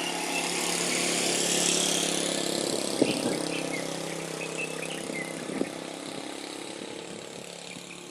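Motor vehicle engine running steadily; its sound swells about two seconds in and then slowly fades. A few short, high bird chirps sound faintly above it.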